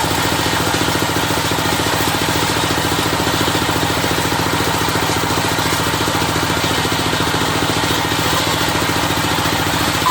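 Engine of a circular sawmill running steadily at an even speed, with a fast, regular firing pulse.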